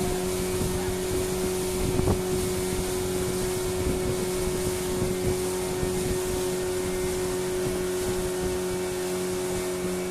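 Fishing boat's engine running steadily at an even pitch, with wind and water noise over it.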